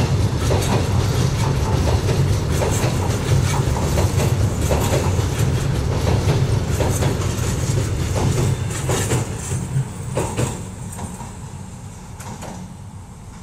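Heritage passenger carriages of the Kuranda Scenic Railway rolling past close by over a low bridge. They make a steady low rumble with a quick run of clicks and clacks from the wheels on the rails. The sound fades away over the last few seconds as the train draws off.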